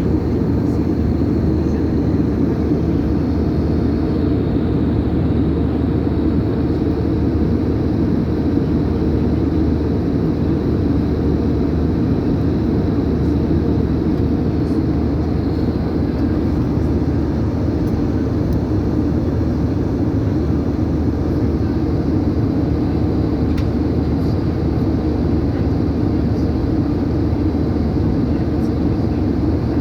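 Airplane cabin noise: a steady low rumble that holds an even level.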